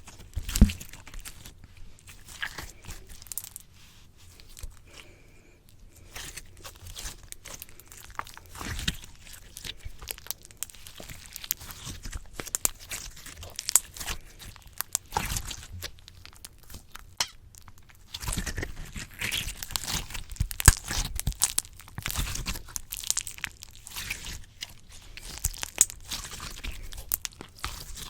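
Slime being squished, pressed and pulled on a microphone: close, irregular sticky crackles, pops and squelches, busier in the second half, with a louder thump about half a second in.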